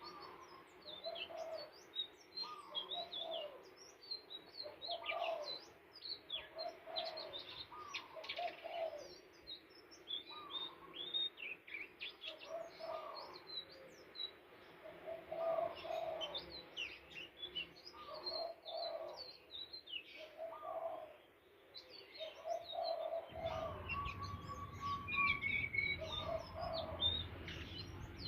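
Flycatchers singing: quick high twittering chirps over a lower rising phrase that repeats about once a second. A low hum joins near the end.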